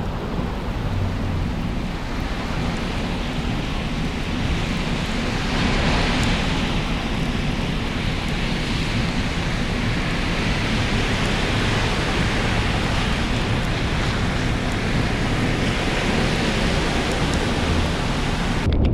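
Heavy rain pouring down, a steady hiss with a low rumble underneath.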